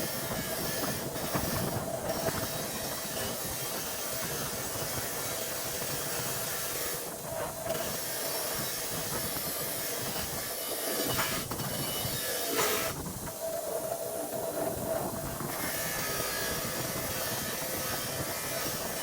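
A steady machine whir with a hiss running under it, dipping briefly twice, about seven and thirteen seconds in.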